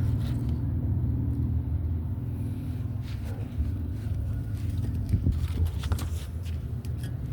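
Bonfire being lit: a steady low rumble with scattered crackles and clicks from about three seconds in.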